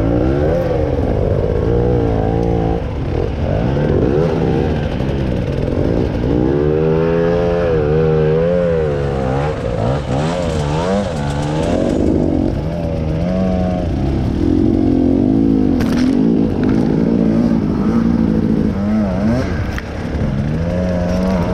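Motorcycle engine running under constant throttle changes, its pitch rising and falling every second or two as it is revved and backed off, with some clattering.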